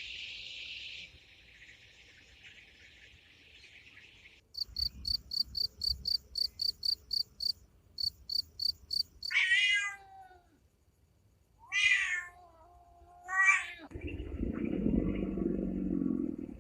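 A run of animal sounds. An insect chirps in rapid, evenly spaced high pulses, about four a second. Then a cat meows three times, each meow falling in pitch, and near the end comes a lower, rougher animal call.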